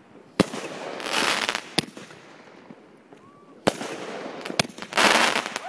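500-gram consumer fireworks cake firing: sharp reports of shots, about four of them, and two loud crackling bursts, one about a second in and one near the end.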